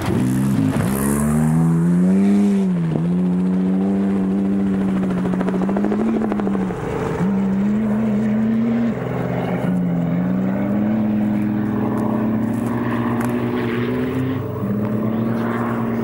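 Desert-racing trophy truck engines running hard at speed. The engine note dips sharply, climbs, then holds with several brief breaks and pitch steps as the throttle is lifted and reapplied or the gears change.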